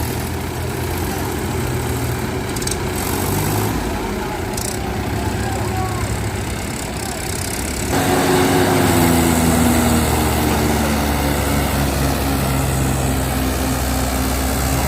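Tractor diesel engine running steadily. About halfway through the sound changes abruptly and becomes louder.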